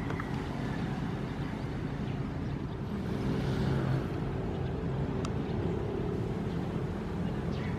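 Ocean waves with a steady low rumble, one wave swelling and washing in about three to four seconds in.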